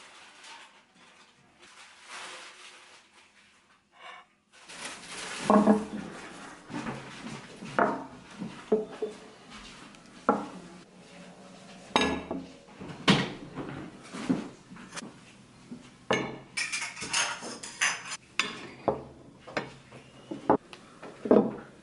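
Dishes and cutlery clinking and clattering in a kitchen: after a quiet start, about five seconds in comes an irregular run of separate clinks and knocks of plates, pans and utensils being handled.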